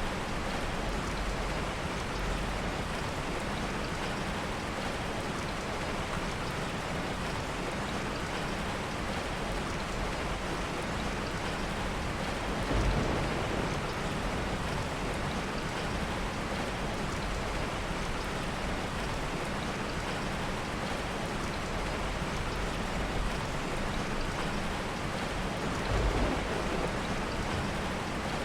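Steady heavy rain, an even hiss of falling water, with two brief low swells about halfway through and again near the end.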